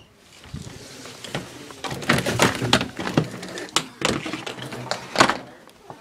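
Irregular knocks, thuds and clatter of objects being handled and bumped, heard in a small room, busiest in the middle of the stretch.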